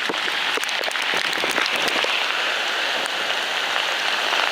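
Heavy rain falling steadily, with many close drops ticking and splattering near the microphone.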